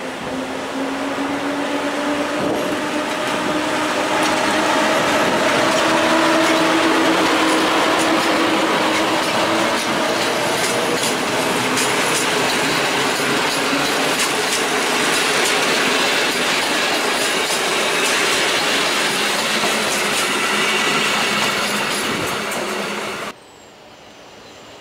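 EP07 electric locomotive pulling away with a passenger train, its traction motors whining and rising in pitch as it accelerates. The coaches then roll past with steady wheel rumble and clatter over the rail joints. Near the end the sound cuts off abruptly to a much quieter background.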